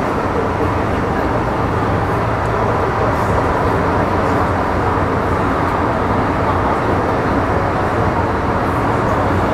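Interior running noise of an MTR Metro Cammell M-Train EMU with GEC GTO chopper traction, cruising at steady speed: a constant, loud rumble of wheels on rail and running gear. The train is in the harbour-crossing tunnel between Yau Tong and Quarry Bay.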